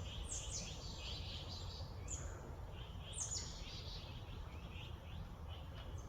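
Wild songbirds calling: three high notes sweeping sharply downward and many short chirps in between, over a steady low background rumble.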